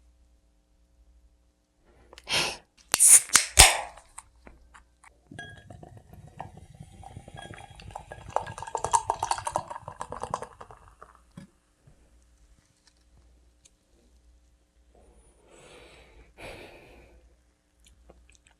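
Food containers and utensils being handled: a few sharp clinks and knocks, then a few seconds of irregular rustling and crinkling, and two short soft noises near the end.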